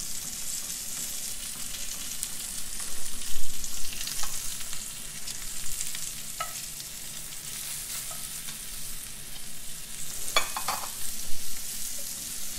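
Fish pieces sizzling as they pan-fry in hot fat in a skillet, a steady hiss. A few sharp clinks of cooking utensils against the pan and pot come and go as the fish is turned with tongs and the pot is stirred.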